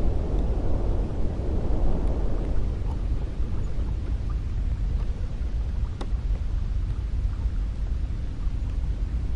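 Cold wind blowing steadily with a deep rumble. A stronger gust eases off over the first couple of seconds, and a few faint ticks sound later.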